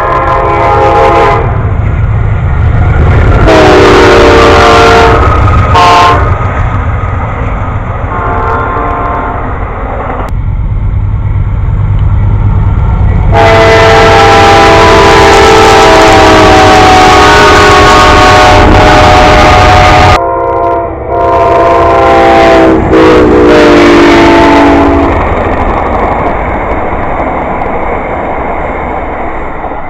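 Amtrak train passing while its locomotive horn sounds a multi-note chord in several blasts, one held for about seven seconds, over the steady rumble of the train. The horn's pitch dips as it goes by.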